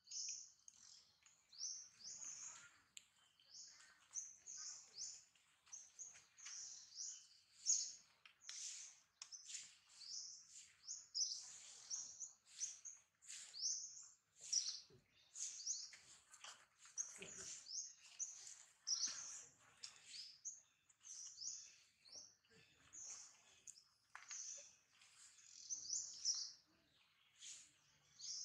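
Birds chirping, a steady run of short, high calls repeated several times a second.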